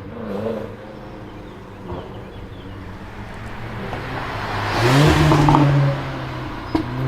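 A car's engine and exhaust, low at first, then revving up about five seconds in to a loud, steady note that holds for about a second before dropping back, with a brief rise again near the end.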